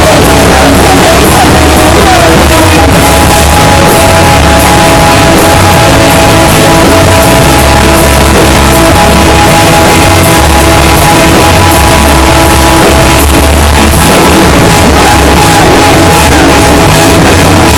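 A rock band playing loud, heavy rock at a practice, in a badly overloaded recording that sounds distorted and harsh throughout.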